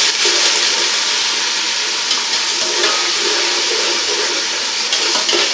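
Browned onions and ginger-garlic paste in hot ghee in a pot, sizzling and hissing steadily as water just added to the hot fat boils off in steam.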